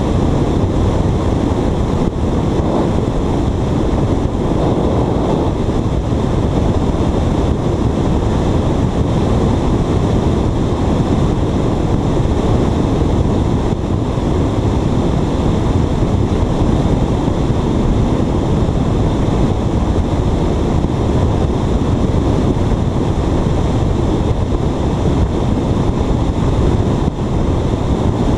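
Steady, loud wind buffeting on a GoPro's microphone: an even rushing rumble with no breaks.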